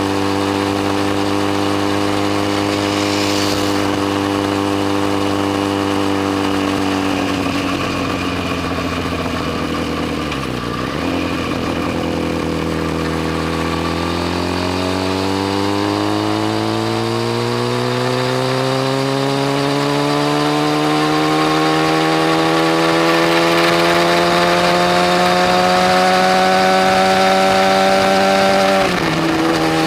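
Yamaha FZ1 motorcycle's inline-four engine under way: a steady note that falls for a few seconds as the bike slows, then climbs slowly in pitch for about fifteen seconds under acceleration before dropping suddenly near the end.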